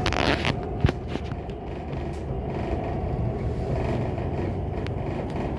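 Train running, heard from inside the carriage: a steady low rumble, with a short hiss at the start and a single sharp knock about a second in.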